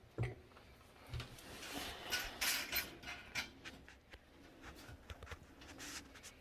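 Scraping and clicking of a wrench working the nuts on a toilet's floor bolts, with small knocks near the start and a run of rubbing scrapes about two to three seconds in.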